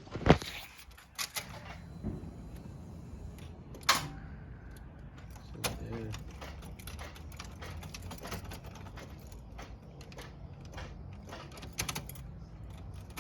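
Scattered metal clicks and knocks from hands working in a pickup's engine bay, at the battery cables of a truck that will not start. The loudest is a sharp click just after the start, and a few single knocks follow over a faint low hum.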